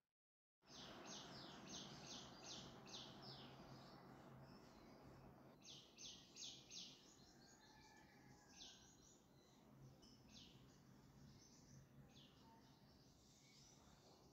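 Faint bird chirping, in several quick runs of high, repeated chirps, over a low steady hum and background noise. It starts after a moment of silence.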